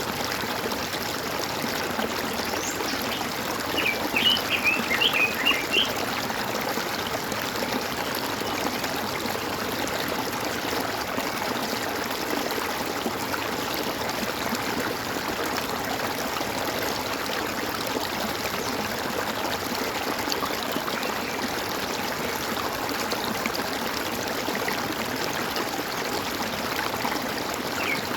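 Water gurgling and trickling steadily, like a small stream. A short burst of quick, high bird chirps comes about four seconds in, the loudest sound here, and a single faint chirp near the end.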